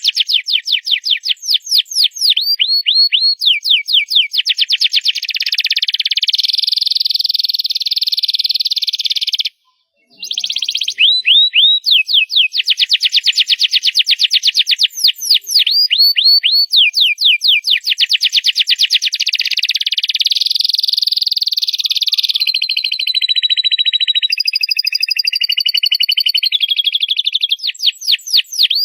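Domestic canary singing loudly: a long, high song of rapid trills, made of series of quick down-sweeping notes alternating with buzzing rolls, with a brief pause about ten seconds in.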